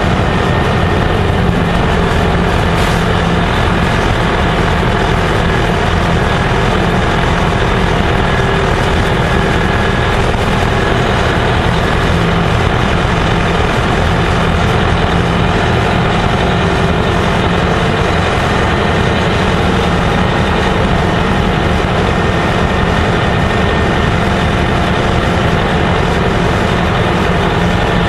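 Gillig Phantom transit bus's diesel engine running steadily and loudly, with no change in pitch or level.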